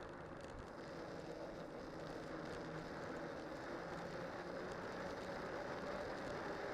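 Steady rolling noise of a cyclocross bike's studded spike tyres on a winter road during a descent, with a faint steady hum, getting slightly louder as it goes.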